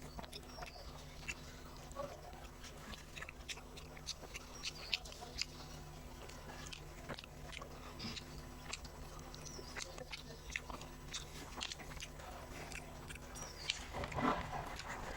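Close-miked eating sounds: a person chewing, with frequent wet mouth clicks and smacks, over a steady low hum. There is one louder burst of mouth noise near the end.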